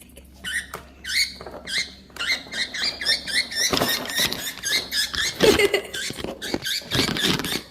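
Pet bird chattering: a rapid run of short, squeaky high chirps, several a second, getting denser and louder about halfway through.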